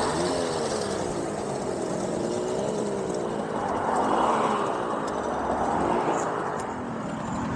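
Small two-stroke moped engines running, their notes sliding up and down and overlapping, over a steady rush of road and wind noise.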